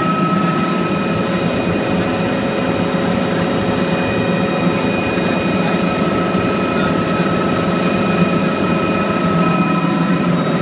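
Helicopter in flight: steady, loud engine and rotor noise with a constant high whine running over it.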